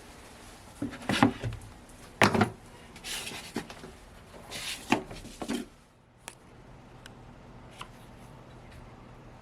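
Objects being handled: several short knocks and rubbing sounds in the first half, the loudest about a second and two seconds in. Then a low steady hum with a few faint ticks.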